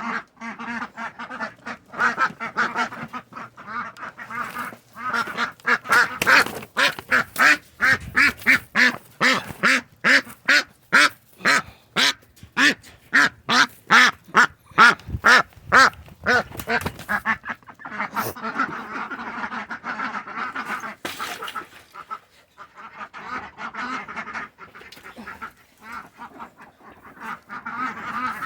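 Domestic ducks quacking loudly and continuously. In the middle comes a long run of loud quacks at about two a second, with quieter overlapping quacking before and after.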